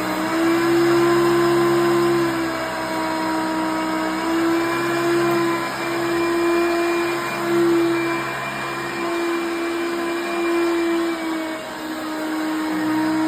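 Late-1980s Hoover Concept One self-propelled upright vacuum cleaner running, a steady motor whine whose pitch shifts slightly every second or two as the load changes.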